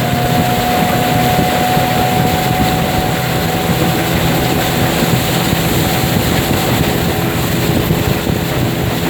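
Racing motorboat engine running steadily at full throttle, a continuous high drone over a rush of noise.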